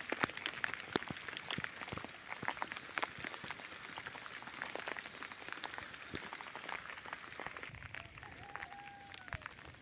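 Rain falling, heard as a steady hiss full of separate sharp drop hits. A brief tonal call sounds about eight seconds in.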